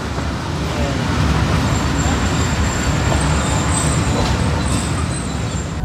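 Passenger train rolling slowly with its brakes applied: a steady rumble of wheels and running noise, with a faint thin high whine from about two seconds in.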